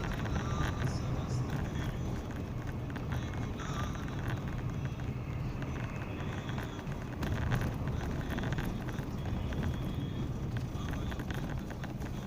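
Steady low rumble of a car's engine and tyres, heard from inside the cabin, while driving slowly on snowy, icy roads, with scattered faint clicks.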